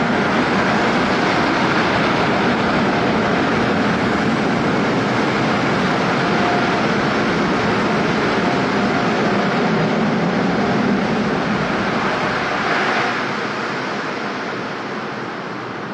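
Automatic tunnel car wash equipment running around the car, heard from inside the cabin: a loud, steady rushing noise that begins to fade about 13 seconds in.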